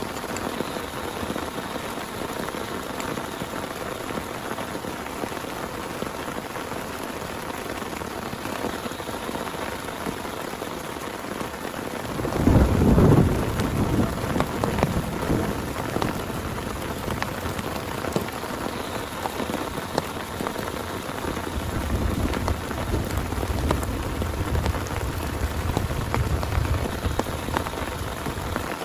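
Steady heavy rain falling, with a sudden thunderclap about twelve seconds in that rumbles on for a few seconds, and a second, longer low rumble of thunder later on.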